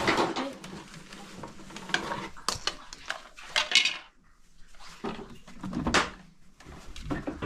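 Dishes and cutlery clinking and scraping in a series of irregular sharp knocks, the sharpest about two, two and a half, three and a half and six seconds in.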